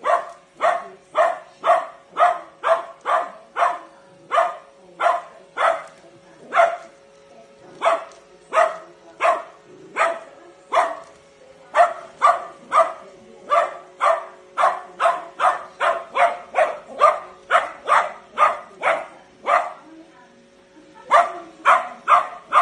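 Small Shiranian (Shih Tzu–Pomeranian mix) dog barking over and over, sharp barks at about two a second with a brief pause near the end. A faint steady hum, typical of a running Roomba robot vacuum, lies underneath.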